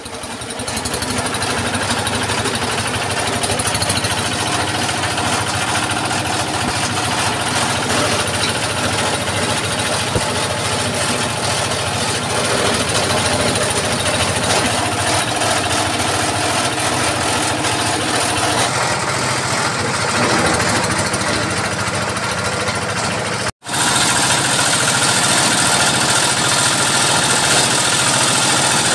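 Small engine-driven chopper running steadily while shredding corn leaves. It cuts out for an instant about three-quarters of the way through, then carries on.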